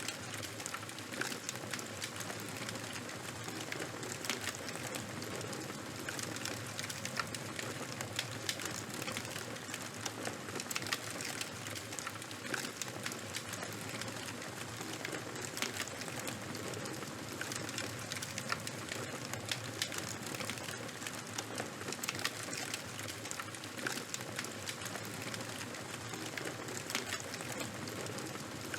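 Charcoal and wood fire burning: a steady hiss with many small crackles and pops.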